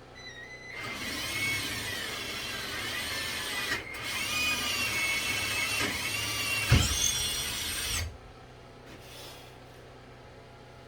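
Power drill with an Irwin bit boring a hole, run slowly. The motor whine rises and falls in pitch and stops briefly about four seconds in. It resumes with a knock near seven seconds and cuts off about a second later.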